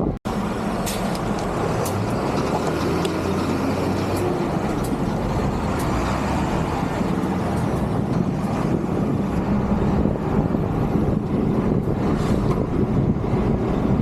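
Motor traffic on the road running alongside, with steady wind rush on a moving bicycle's camera microphone. The sound drops out for a moment just after the start.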